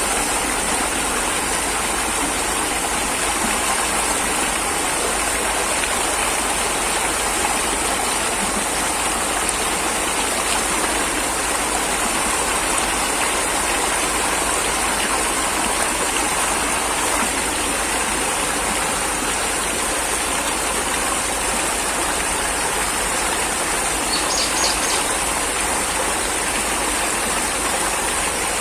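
Steady, even rushing noise with a constant high hiss over it, and a few faint ticks near the end.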